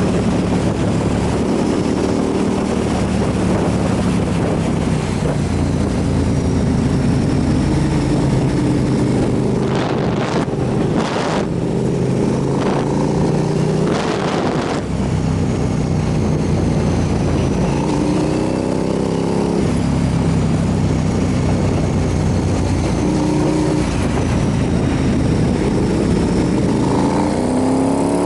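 Motorcycle engine running under way with a steady rush of wind noise. The engine's pitch climbs and drops several times, and there are a few short rushes of noise around the middle.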